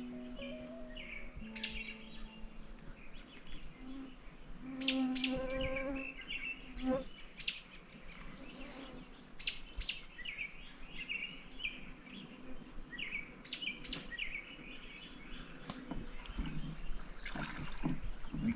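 Small birds chirping: scattered short, sharp chips and brief calls, repeated irregularly throughout.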